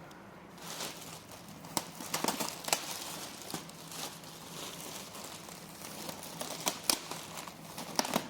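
Plastic packaging and bubble wrap being handled and crinkled, starting about half a second in, with many sharp crackles and snaps.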